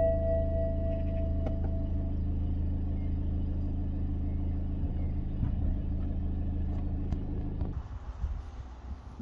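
BMW X3 xDrive20d's four-cylinder diesel engine idling, a steady low hum heard from inside the cabin, with a chime tone fading out over the first two seconds. Near the end the cabin hum drops away as the sound opens out.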